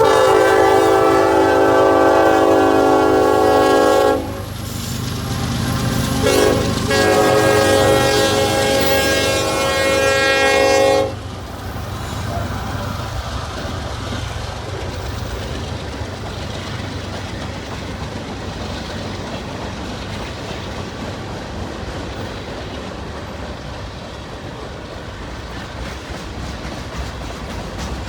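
Diesel freight locomotive's horn sounding at a grade crossing: a long blast of about four seconds, a short toot, then another long blast. After that the mixed manifest freight train rumbles past with steady clickety-clack from the wheels over the rail joints.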